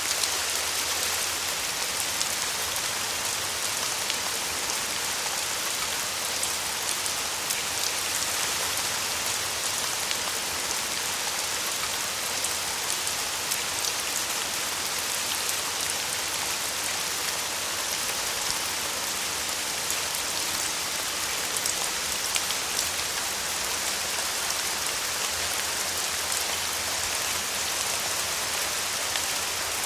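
Steady rain falling, an even hiss full of fine drop ticks with no let-up.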